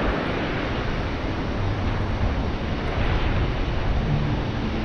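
Steady rushing noise of wind buffeting the microphone over the roar of the Bhote Koshi river's rapids.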